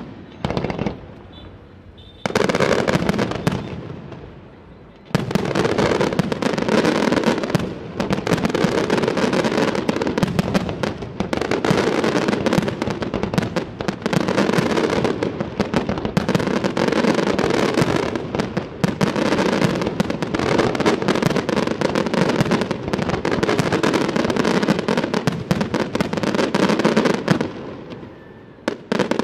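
Aerial fireworks display: a few separate shell bursts in the first seconds, then from about five seconds in a dense, continuous barrage of bangs and crackle lasting over twenty seconds. It eases off near the end, with one last bang.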